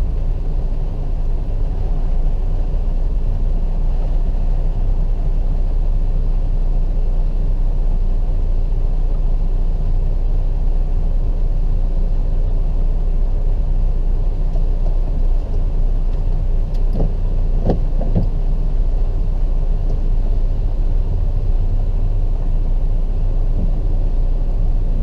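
Car engine running at idle, heard from inside the cabin as a steady low rumble while the car sits in stalled traffic.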